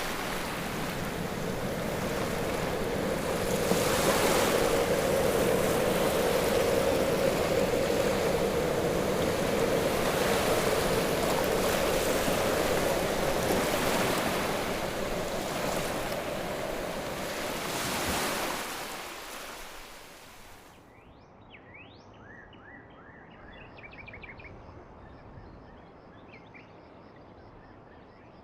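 Rushing wind and water aboard a moving boat, with a steady hum underneath and surges every few seconds. About twenty seconds in it drops away to a quiet background with birds chirping.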